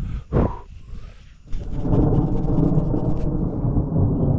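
Thunder rumbling, a loud low rumble that starts about one and a half seconds in and keeps going.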